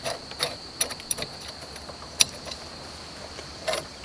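Small metal hardware being handled during chainsaw mill assembly: light clicks and clinks of nuts, washers and steel parts, with one sharper click about two seconds in and a few more near the end, over a faint steady high whine.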